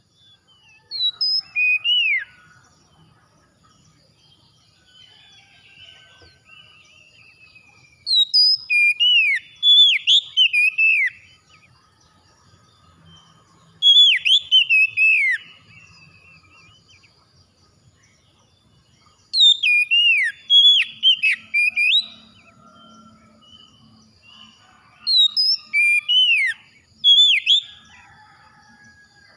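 Oriental magpie-robin singing: five loud phrases of rich, hooked and falling whistles a few seconds apart, with soft twittering between them.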